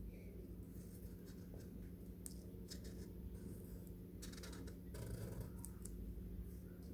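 Marker pen drawing on paper: faint, scattered scratchy strokes, busiest a little past the middle, over a faint steady low hum.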